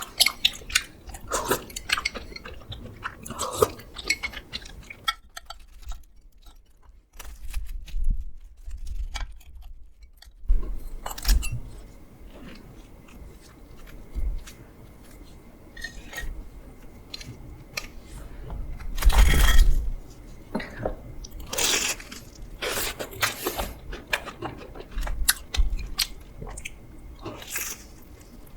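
Close-up eating sounds of a crisp homemade croffle: crunching bites and chewing in irregular strokes, with a quieter pause of several seconds about a fifth of the way in.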